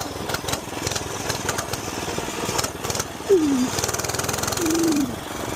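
Small single-cylinder gas engine of a mini bike running under way, with a fast, even putter. Two short falling tones break in over it about midway.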